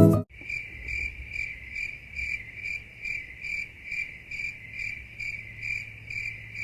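Cricket chirping in an even rhythm, a bit over two chirps a second. It cuts in abruptly as music stops and ends just as abruptly.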